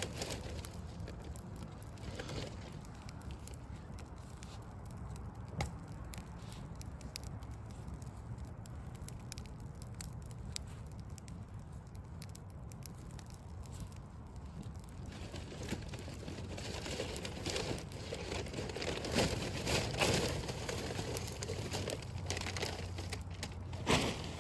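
Backyard log fire crackling, with scattered sharp pops that grow denser and louder in the second half. A low steady rumble sits underneath.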